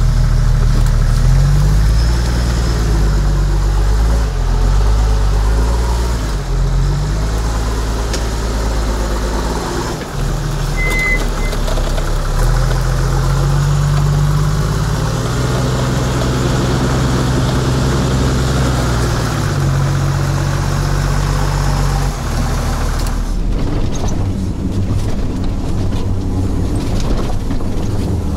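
Toyota Land Cruiser 80's engine revving up and down under load as the truck crawls through a ditch, its pitch stepping between several held levels. About 23 seconds in it gives way to a lower, steady engine and road rumble of driving along a dirt road.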